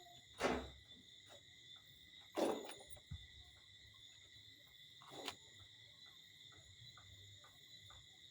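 Crickets trilling steadily in the night, with three short, louder sudden sounds, like knocks, about half a second, two and a half seconds and five seconds in.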